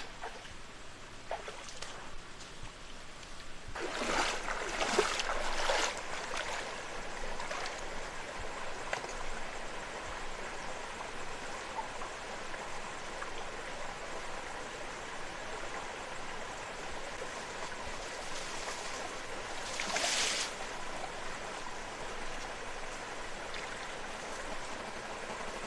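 Steady rushing water, with louder splashing bursts from about four to six seconds in and again around twenty seconds.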